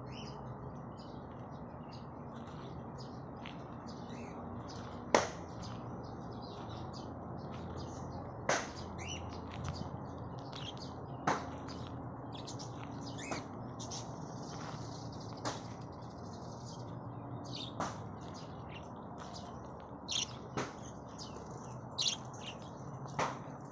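Small birds chirping: a busy run of short high chirps, with a louder, sharper note every two or three seconds.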